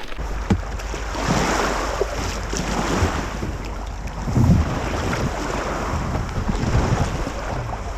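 Lake waves washing and splashing, with several louder surges, the strongest about halfway through. Wind buffets the microphone throughout.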